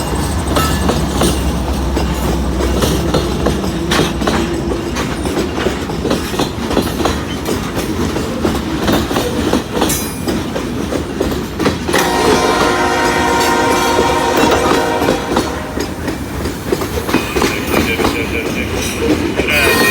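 CSX freight train with loaded cars rolling along, its wheels clacking steadily over the rails. About twelve seconds in, the locomotive horn sounds for about three and a half seconds, and a steady high-pitched tone comes in near the end.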